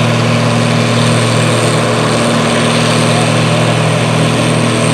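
Farm tractor engine running steadily under load while pulling a weight-transfer sled.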